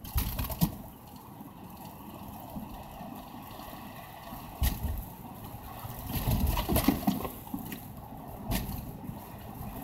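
A car driving on a snowy, slushy road: a steady wet hiss of tyres through slush, broken by several thumps, the loudest cluster about six to seven seconds in.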